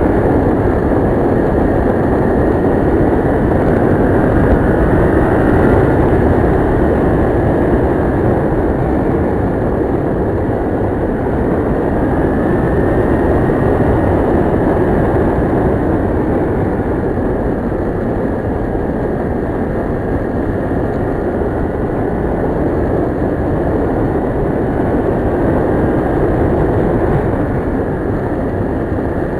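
Kawasaki Ninja 650R motorcycle under way, its parallel-twin engine running steadily at cruising speed under a heavy rush of wind and road noise.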